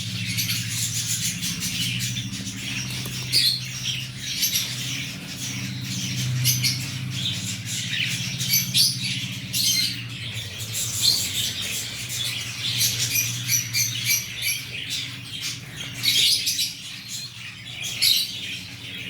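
Cockatiel pecking and crunching grain: dense, irregular rapid clicks and crackles of its beak cracking corn and wheat kernels. Beneath them runs a low steady hum.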